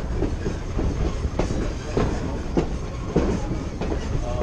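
Passenger train rolling along with a steady rumble, heard from on board. Its wheels click over the rail joints in a regular clickety-clack about every half second.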